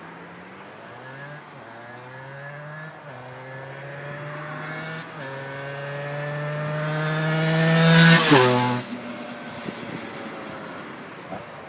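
Aprilia MX 125's two-stroke single accelerating hard toward the microphone, its note climbing and dropping back with each upshift, about three times. It passes about eight seconds in, where the pitch falls sharply and the sound fades as it rides away.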